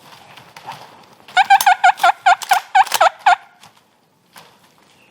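Eastern wild turkey gobbler gobbling loudly at close range: one rattling gobble of about a dozen quick notes, lasting about two seconds and starting about a second and a half in.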